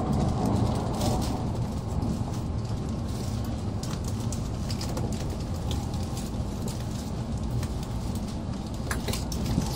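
Steady running rumble heard inside the passenger cabin of an N700A Shinkansen train in motion, with faint scattered light clicks over it.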